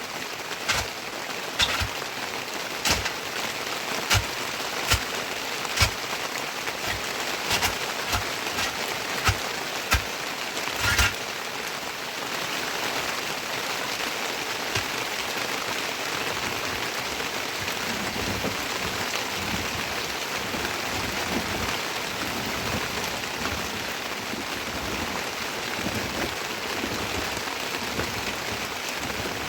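Heavy rain falling steadily, a dense even hiss. During the first ten seconds or so, sharp single taps land about once a second over the rain, then stop.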